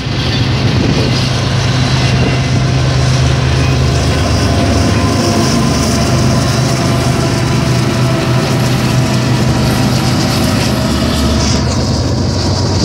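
Train passing: a loud, steady rumble with a low drone running through it.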